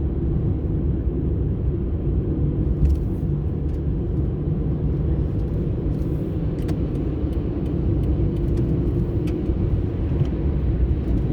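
Steady low rumble of a car driving, engine and tyre noise heard from inside the cabin, with a few faint scattered ticks.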